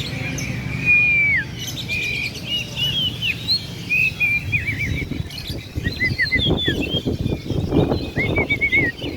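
Caged songbirds singing: clear whistled notes, some long and falling, others in quick trills, over a steady low background rumble.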